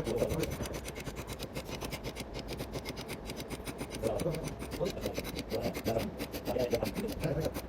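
Rapid, rhythmic rasping scrape of a tool worked against a Ford 18/38's water radiator, many strokes a second, growing louder about four seconds in.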